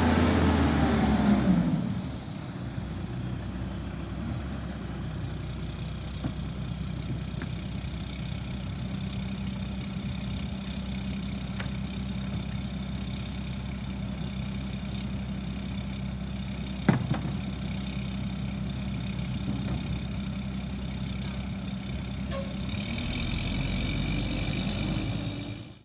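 Garbage truck engine idling steadily, with one sharp knock about seventeen seconds in. Near the end a higher whine joins and the engine note grows louder, then the sound cuts off suddenly.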